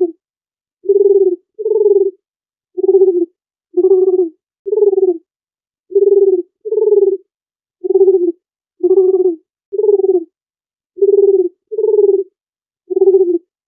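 Dove cooing: a steady series of short, low, hooting notes, about one a second.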